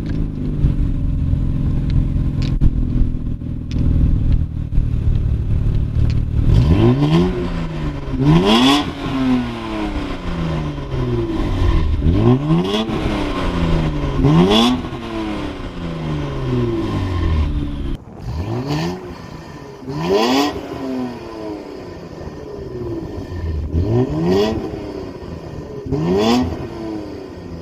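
Infiniti Q50/Q60 3.0-litre twin-turbo V6 through an AAM Competition 3-inch true-dual catback exhaust. It runs steadily for about six seconds, then is revved again and again, each rev climbing quickly and falling back more slowly, with short sharp cracks near the top of several revs.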